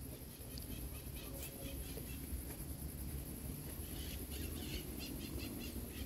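Quiet background with a steady low rumble and faint, short bird chirps, which come more often near the end.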